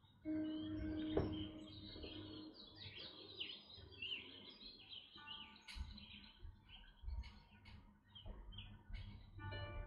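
Small birds chirping and twittering continually. About a second in, a steady tone sounds for about two seconds, broken by a sharp tap.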